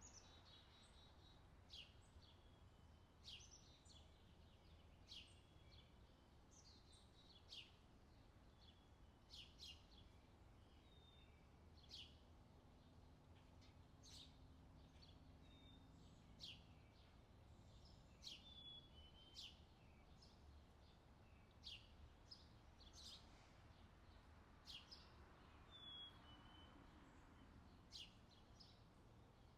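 Faint outdoor summer ambience: birds chirping, short sharp high calls every second or two, over a low steady background rumble.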